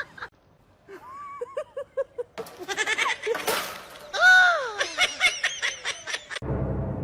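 An animal crying out: a run of short pitched calls, then one loud, drawn-out cry that falls in pitch about four seconds in, followed by more quick repeated calls.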